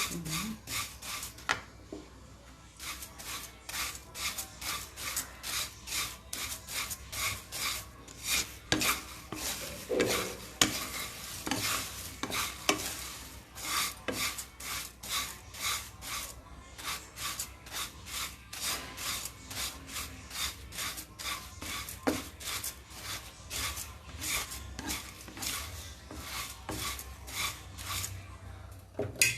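Spatula scraping and stirring poha flakes as they dry-roast in a kadai with no oil, a dry rasping stroke repeated about two or three times a second, with a short pause about two seconds in. The flakes are being toasted until crisp.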